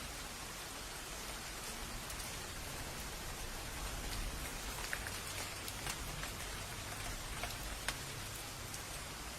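Steady rain falling, an even hiss with a few single drops ticking sharply about five, six and eight seconds in.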